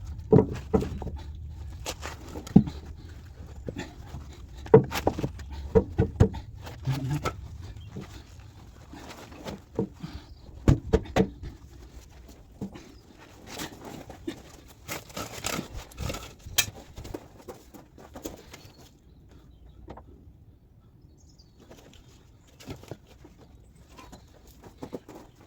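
Irregular knocks and clinks of tools and metal parts being handled while refitting engine fittings, busy for the first half or so, then sparser, with a low rumble underneath during the first few seconds.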